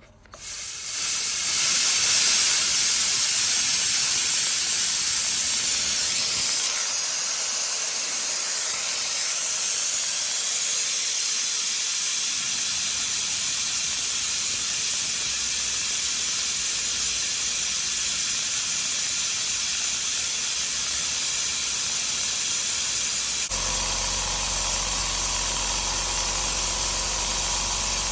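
Compressed air hissing steadily out of an air blow gun held wide open by a cable tie, fed at about 8 bar from a SIP QT100/10 low-noise compressor. About 23 seconds in, the compressor's motor starts up and runs as a steady low hum beneath the hiss, refilling the tank that the open air gun is draining.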